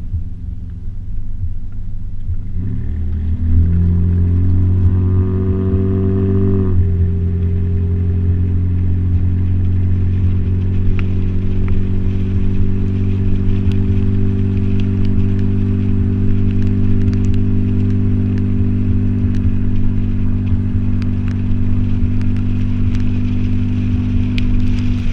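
Toyota 4Runner engine through a Flowmaster 40 Series exhaust. It runs low at first, then revs up with a climbing pitch for about four seconds and drops suddenly. After that it holds a steady, even drone for the rest.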